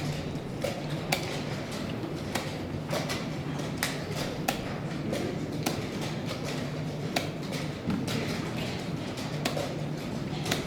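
Chess pieces being set down and chess clock buttons pressed in a fast blitz game: irregular sharp clicks, about one or two a second, over a steady low hum.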